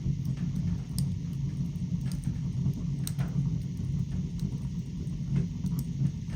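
Fire burning in a fireplace: a steady low rumble with scattered sharp crackles and pops every second or two.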